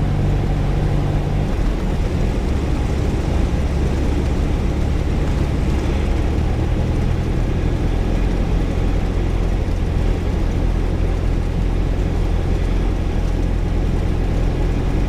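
Single-engine Cessna's piston engine running steadily, its drone changing pitch about a second and a half in and again around six seconds in as the power setting is changed.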